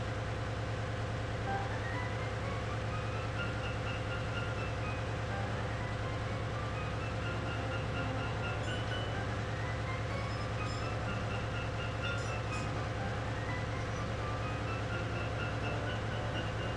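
Steady low drone of ship engine-room machinery. Over it plays background music, whose melody climbs in short stepped runs of notes that repeat every few seconds.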